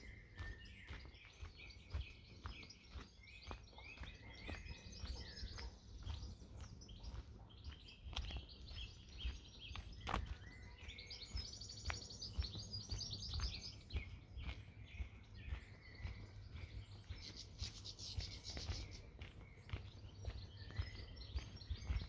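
Several songbirds singing and chirping at once, overlapping phrases with a couple of fast high trills, over regular footsteps of a person walking.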